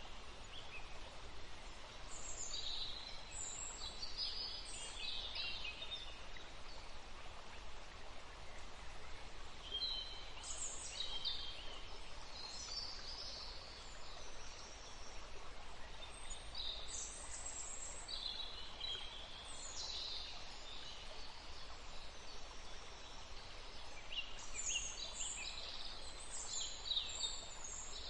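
Songbirds singing short high-pitched phrases every few seconds over the steady rush of a forest stream.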